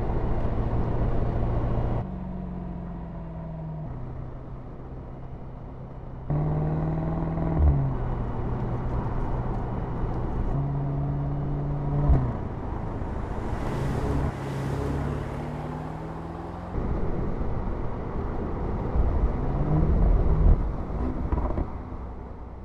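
Mercedes-AMG SL's twin-turbo V8 under acceleration. Its note rises in pitch and then drops back at each upshift, several times over, with a short loud crack at some of the shifts.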